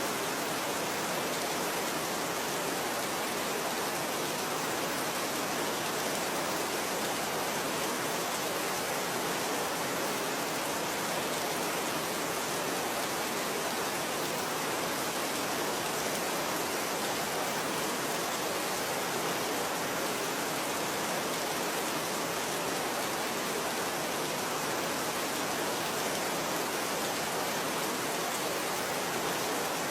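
Rain falling steadily: an even, unchanging hiss of many drops.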